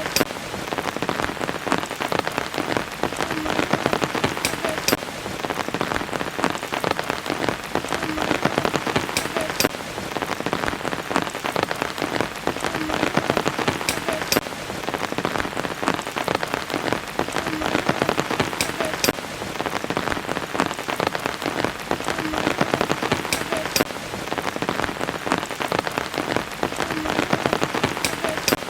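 Steady rain falling on surfaces, a dense patter of drops with no letup. The same stretch of rain repeats about every five seconds.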